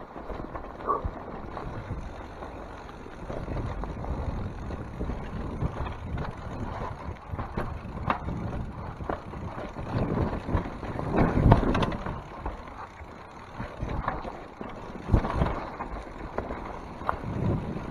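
Mountain bike riding down a wet trail: tyre and drivetrain rumble broken by irregular knocks and rattles over bumps, loudest a little past the middle.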